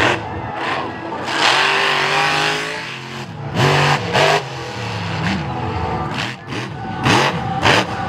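Monster truck engine revving hard and repeatedly, its pitch climbing and dropping several times, with short loud blasts between the revs.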